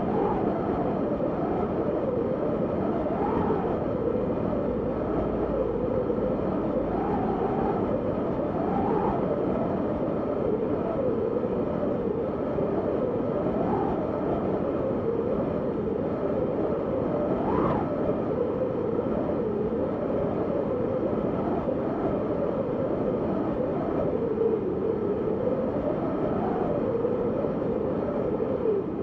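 Wind blowing steadily, with a hollow whistle that wavers up and down in pitch as it gusts.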